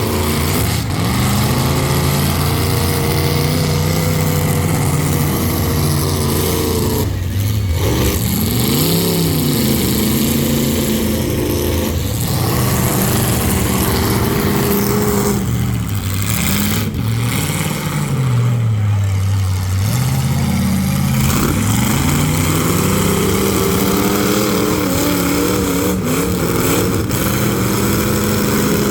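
Demolition derby cars' engines revving hard, their pitch rising and falling as the cars accelerate and back off, with more than one engine running at once.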